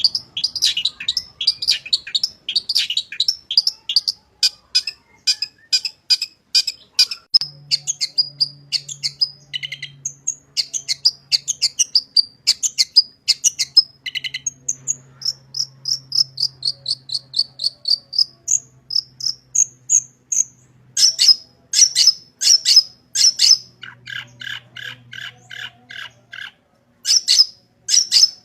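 Long-tailed shrike singing a fast, varied song of rapid, sharp chattering notes. A run of falling notes comes in the middle and harsher, buzzier notes near the end, in the continuous 'gacor' song full of mimicked phrases.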